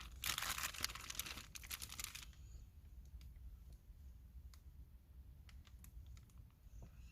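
Crinkling and rustling of handled plastic wrapping for about two seconds, then scattered light clicks and taps.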